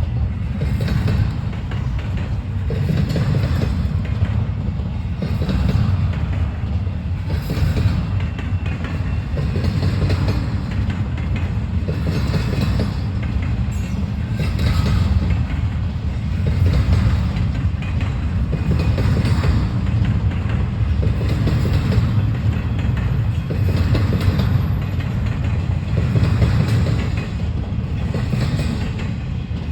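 Freight train rolling past, a steady rumble with its wheels clacking over the track every second or two.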